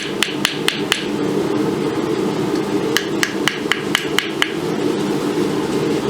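Blacksmith's hammer striking hot steel on an anvil, bending the quillons of a sword's clamshell guard: a few quick ringing blows at the start, then a pause, then a run of about seven more, over a steady low rushing noise.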